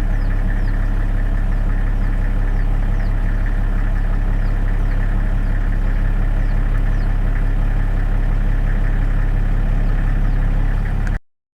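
A loud, steady engine-like drone with a low hum and many even overtones, with faint short high chirps repeating above it; it cuts off suddenly near the end.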